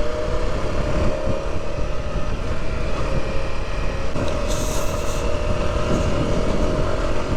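Off-road motorcycle engine running steadily in gear on a dirt trail, over a heavy low rumble of wind and ground noise on the action camera's microphone. A short hiss comes in about four and a half seconds in.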